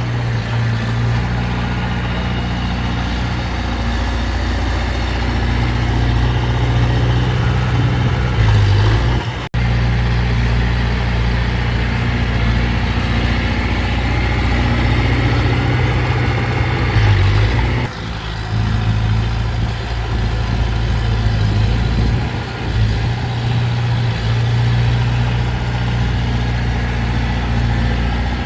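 Diesel engine of heavy earthmoving machinery running steadily with a deep low drone and small swells in level. The sound breaks off for an instant about nine and a half seconds in, and shifts again near eighteen seconds.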